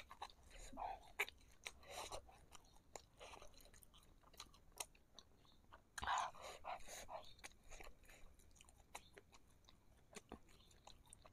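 Close-miked chewing of fried meatballs (bakso goreng) in spicy sauce: irregular small clicks and wet mouth smacks, with a louder smack about six seconds in.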